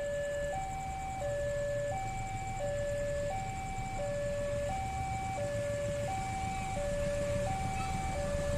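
Railway level-crossing warning alarm sounding a two-tone electronic signal, a higher and a lower note alternating about every 0.7 s, warning that a train is approaching. A low rumble lies beneath it and grows slightly louder near the end.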